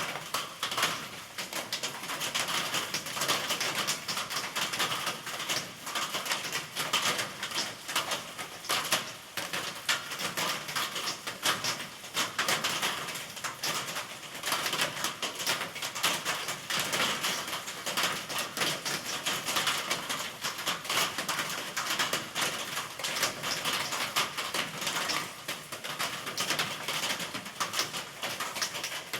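Steady rain pattering, a dense run of close drops tapping on a surface over an even hiss.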